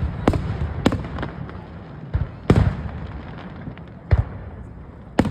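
Aerial fireworks shells bursting: about seven sharp bangs at irregular intervals over a continuous low rumble, the loudest about halfway through.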